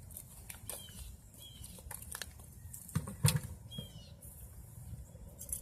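Quiet outdoor ambience: a few small birds chirping briefly, with scattered light clicks and one louder knock about three seconds in.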